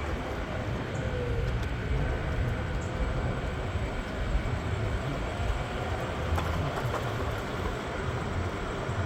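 PATH train in motion: a steady low rumble with a few faint clicks.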